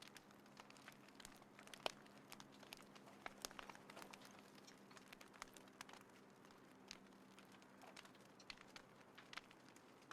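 Small wood fire crackling faintly, with irregular sharp pops and snaps, the loudest just before two seconds in.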